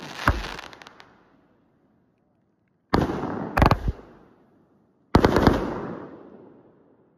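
Aerial fireworks from a consumer cake bursting in the sky: four sharp bangs, two close together near the start of a pair about three seconds in, each dying away over a second or so.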